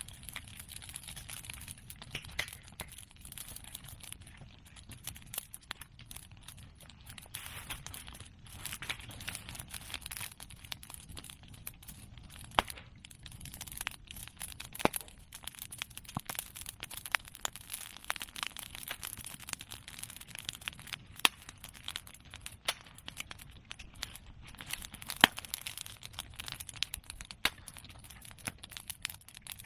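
Open fire of cut bamboo and chestnut prunings crackling steadily, with sharp pops breaking out every few seconds, the loudest about 25 seconds in.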